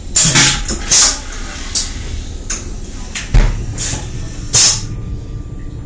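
Steady low rumble of a moving high-speed train, broken by about seven short, loud hissing bursts at irregular intervals and a heavy thump about three and a half seconds in.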